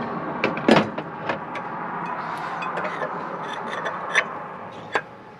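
Several sharp knocks and clinks, the loudest about three-quarters of a second in and the others scattered, over a steady background hiss.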